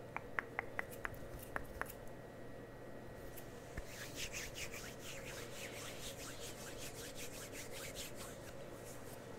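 Several light clicks close to the microphone, then from about three and a half seconds in a quick run of scratchy rubbing strokes, like a brush or applicator worked right against the mic.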